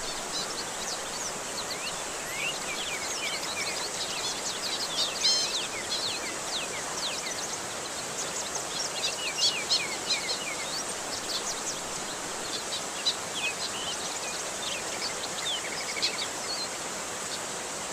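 Steady rushing of flowing water, with birds chirping and whistling over it in several flurries of short rising and falling notes.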